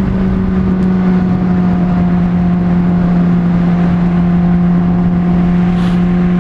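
Honda CBR600RR inline-four motorcycle engine running at steady revs while riding, with wind noise over the microphone.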